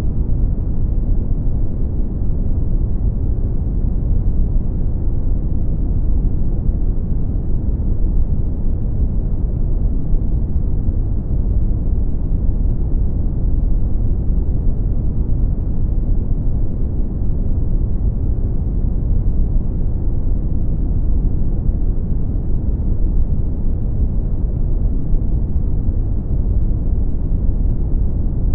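Steady brown noise: a deep, even rumble of random noise, strongest in the bass and fading toward the treble, with no changes.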